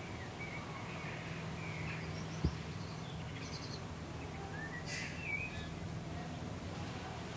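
Faint birdsong: scattered chirps and short warbled phrases over a steady low hum, with a single sharp click about two and a half seconds in.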